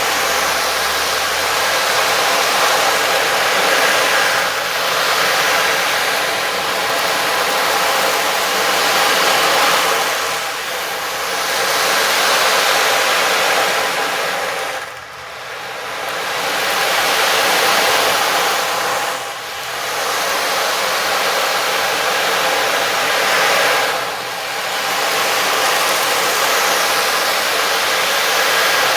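Steady rushing wash over several held drone tones from sound-healing instruments, dipping briefly about every four to five seconds.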